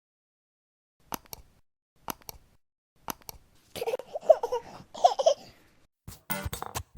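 Three sharp double clicks about a second apart, then a baby babbling and laughing in two short bursts. Music with a beat starts near the end.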